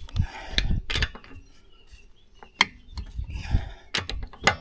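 Several sharp metallic clicks and clinks, with rustling and knocking in between, from tools and brake parts being handled during a rear brake pad change.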